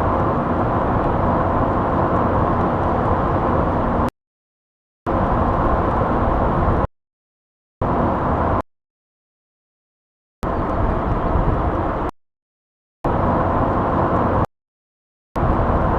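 Car-driving sound effect auditioned in snippets: steady car engine and road noise that starts and cuts off abruptly six times, with dead silence between. The first stretch runs about four seconds; the later ones run one to two seconds each.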